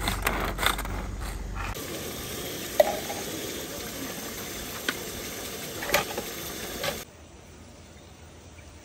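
A quick run of mechanical clicking and rattling over a low hum, then chopped shallots frying in oil in a wok with a steady sizzle, a spoon clinking against a glass cup three times. The sizzle cuts off suddenly near the end.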